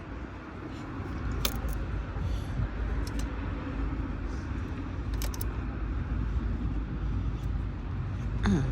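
A few scattered sharp metallic clicks and clinks of hand tools at work on a car battery and its terminals, over a steady low rumble.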